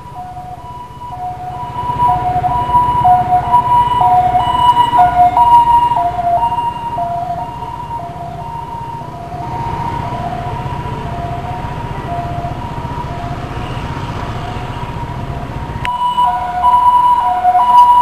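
Emergency vehicle's two-tone hi-lo siren, switching steadily between a high and a low note, over the rumble of its engine. The siren swells louder a couple of seconds in, and changes abruptly near the end.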